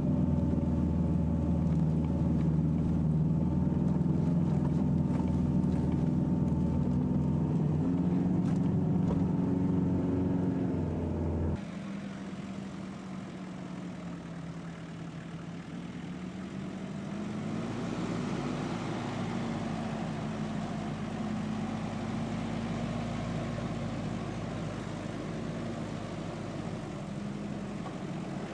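Jeep engine running under load, heard from inside the cabin as a steady drone with a small step up in pitch about eight seconds in; it cuts off suddenly after about eleven seconds. Then a Jeep Cherokee's engine is heard from outside as it crawls off-road, picking up revs about six seconds later and holding steady.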